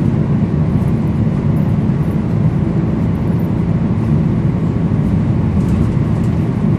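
Volvo B10BLE single-deck bus's six-cylinder diesel engine running steadily under way, a constant low drone mixed with road noise.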